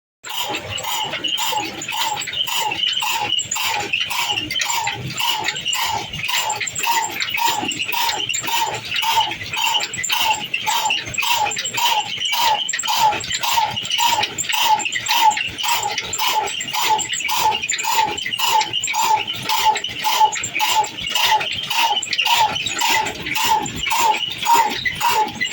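Old diesel engine running at a slow, even beat of about two knocks a second.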